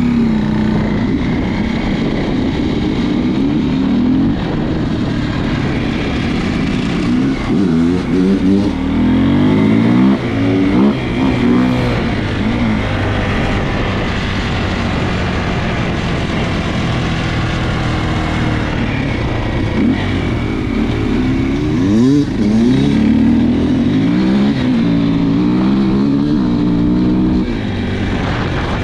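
Enduro dirt bike engine under way, revving up through the gears and easing off again. Several rising sweeps in pitch come as it accelerates, in two stretches about a third of the way in and again past the two-thirds mark.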